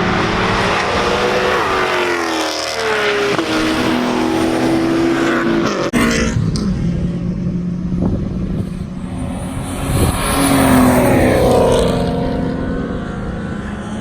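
Race cars at speed on a track, their engines revving up and falling back through gear changes as they pass. The sound changes abruptly about six seconds in.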